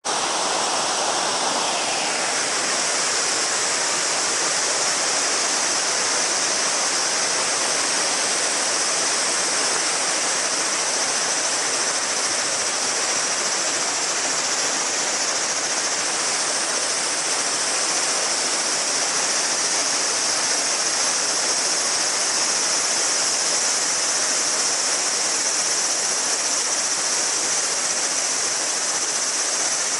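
A mountain river babbling steadily over rocks, with a chorus of summer cicadas as a steady high buzz over the water.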